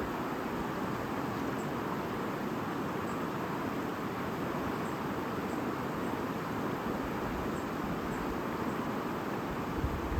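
A babbling stream flowing steadily, with a few faint, short, high chirps now and then.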